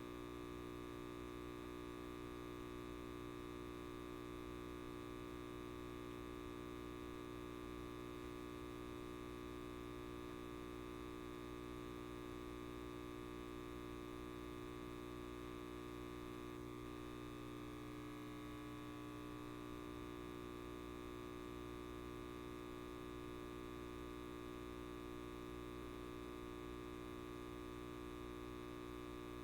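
Electric light bulb buzzing: a steady mains hum with many overtones, unchanging in level, with a faint click and a brief wavering a little past halfway.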